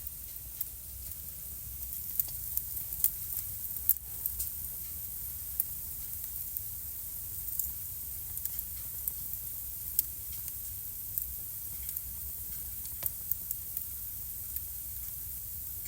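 Wood fire crackling in a fireplace: a steady hiss with scattered sharp pops and snaps, the loudest about four seconds in.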